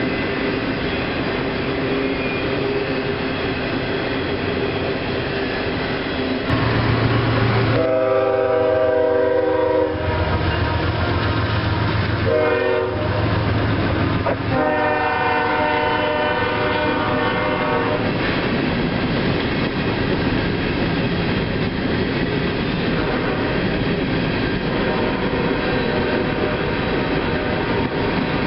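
CSX freight train rolling past with a steady rumble and clickety-clack of steel wheels on the rails. Near the middle a diesel locomotive horn sounds a long blast, a short blast and another long blast. Along with the horn comes the deep hum of a diesel locomotive in the train going by.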